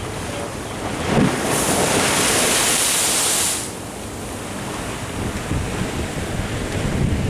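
Ocean surf washing in, with one loud rush of water starting about a second and a half in and lasting about two seconds, over wind buffeting the microphone.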